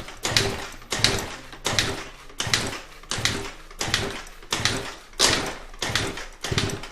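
Yamaha Aprio's 50 cc two-stroke scooter engine being cranked over again and again without firing, in about nine short strokes a little more than one a second. It won't catch because the tank has no petrol in it.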